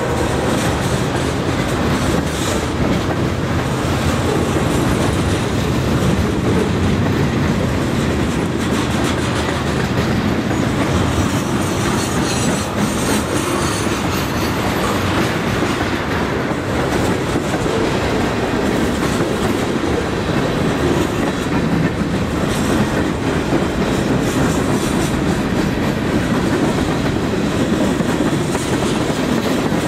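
Mixed freight train of tank cars and boxcars rolling past close by. Steel wheels run over the rails with a steady, dense clatter.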